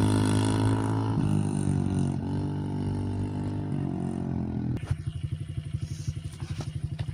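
Small motorbike engine running at steady revs, gradually fading. About five seconds in it changes abruptly to a close, steady idle with an even putter.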